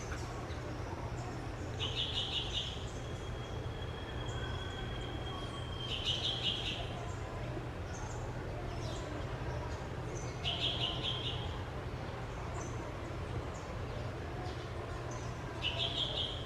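Orange-chinned parakeets giving short, rapid chattering calls, four of them about four seconds apart. A thin steady whistle holds for about three seconds after the first call. Fainter chirps and a steady low hum sit underneath.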